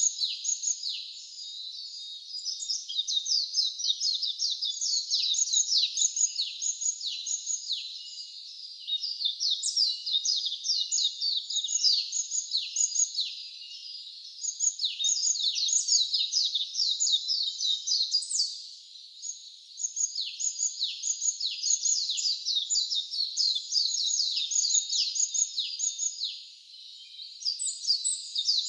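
Wild songbirds singing: a dense run of rapid, high chirping notes, each sweeping quickly downward, in phrases several seconds long with brief pauses between them.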